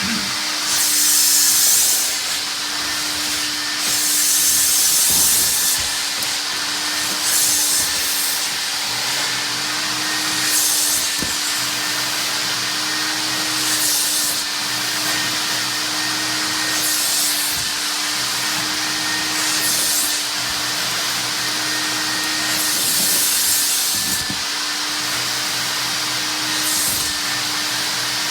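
Mytee Lite 8070 hot water carpet extractor running, its vacuum motor holding a steady hum, while a hiss surges and fades about every three seconds as the extraction wand is worked back and forth over the dirty surface.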